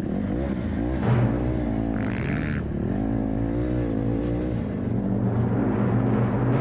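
Motorcycle engine running on the road, its pitch rising and falling as the throttle is worked, with a short high-pitched sound about two seconds in.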